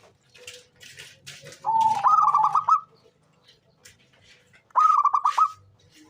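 Zebra dove (local perkutut) cooing in two phrases. The first, about two seconds in, opens on a held note that breaks into a quick run of staccato coos; the second, about five seconds in, is a short quick run of coos.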